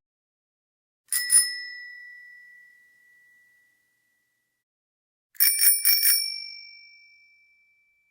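A bicycle bell sound effect. It gives one ding about a second in, then a quick run of four rings just past the five-second mark, each ringing out and fading slowly.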